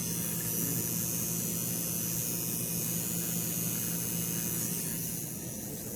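Steady mechanical hum with a hiss from running machinery. The low part of the hum drops away about five seconds in.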